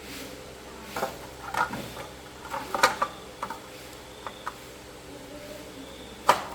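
Irregular light clicks and knocks of small hard objects being handled, about a dozen in all, the loudest a cluster about three seconds in and a single sharp knock near the end.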